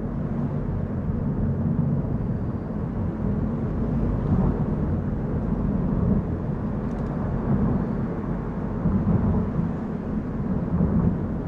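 A car driving on a mountain road: a steady low rumble of tyres and engine, swelling slightly now and then.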